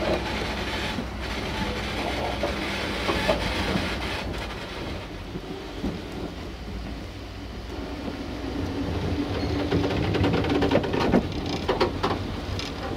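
Locomotive rolling slowly over depot track: a steady low rumble, with sharp wheel clicks over rail joints and points coming thick and fast near the end.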